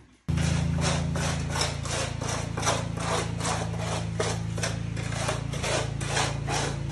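Concrete mixer running, its motor giving a steady hum under regular knocking about three or four times a second as the drum turns and churns the mix. It starts abruptly just after the beginning.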